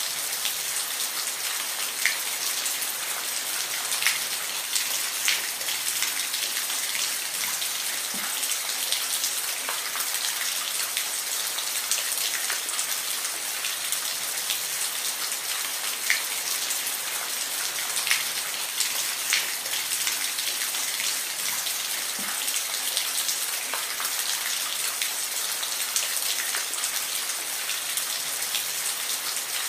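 Steady rain, a constant hiss with individual drops striking a surface every second or two.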